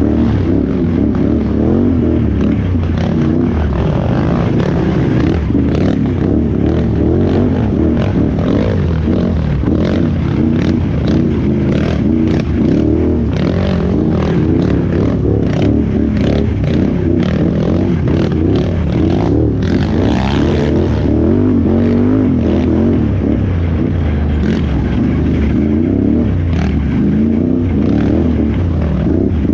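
Can-Am Renegade XXC 1000R ATV's V-twin engine running hard, its revs rising and falling constantly, with scattered knocks and clatter over the top.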